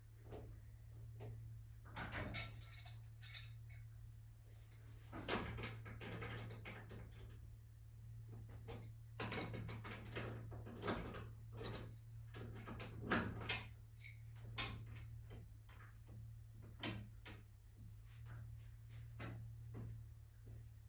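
Irregular metallic clinks, clanks and rattles of tools and garage door spring hardware being handled, some in quick clusters, over a steady low hum.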